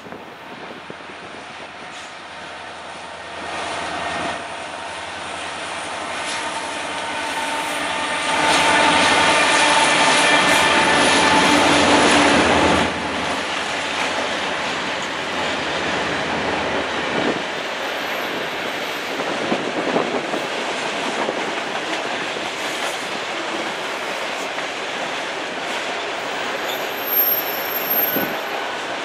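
CN mixed freight train passing: the diesel locomotives grow louder as they approach and are loudest going by, about eight to thirteen seconds in, their engines giving a steady hum with tones. Then the freight cars roll past with steady wheel noise on the rails, occasional knocks, and brief high wheel squeals near the end.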